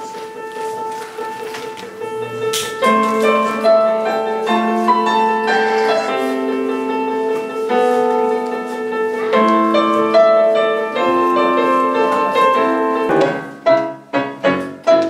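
A medley of pop songs played by ear on a keyboard: a melody over long held notes and chords, turning to short repeated chords about two seconds from the end.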